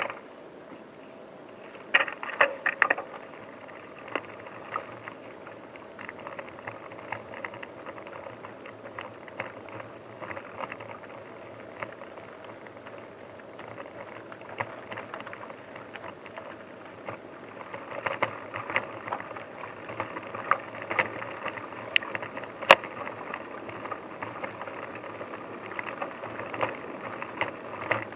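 Bicycle rattling over rough ground, with a steady run of irregular clicks and knocks, busier near the start and in the last third.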